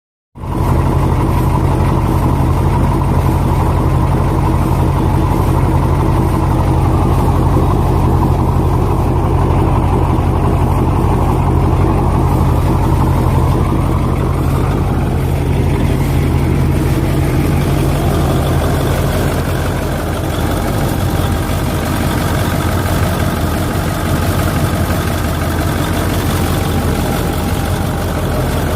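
International V800 V8 engine of an International 4070 truck idling steadily, its tone shifting slightly about halfway through.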